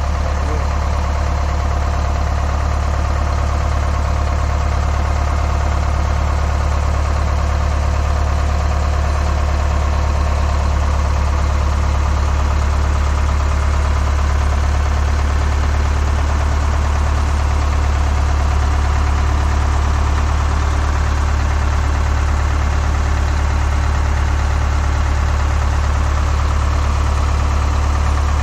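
Large truck engine idling steadily.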